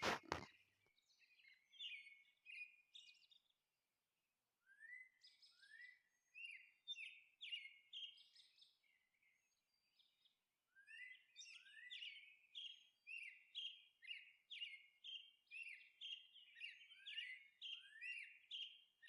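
Faint birds chirping: short rising chirps, a loose group about five seconds in, then a steady run of about two a second through the second half.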